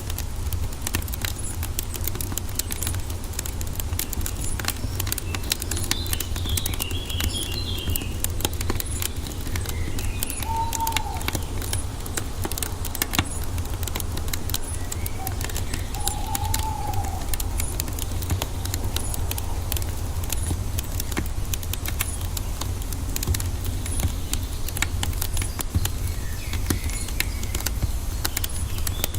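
Wood fire crackling with a steady low rumble underneath. Birds chirp in the background, with a burst of high chirps about a quarter of the way in and two short, lower calls near the middle.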